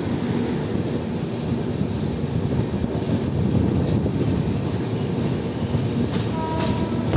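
Indian Railways passenger train in motion: a steady rumble of the coach and wheels on the rails. A brief, faint high tone sounds about six seconds in.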